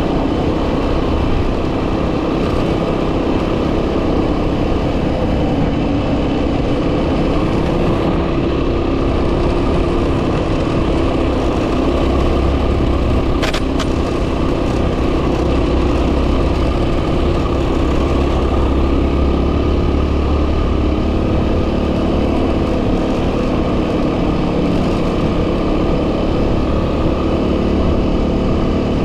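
Yamaha WR250R's 250 cc single-cylinder engine running steadily under way, heavily overlaid by wind noise on the microphone. A single short click sounds about halfway through.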